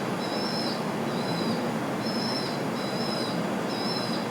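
A bird giving a steady series of short, high-pitched squeaks, about one a second, over a constant background hiss.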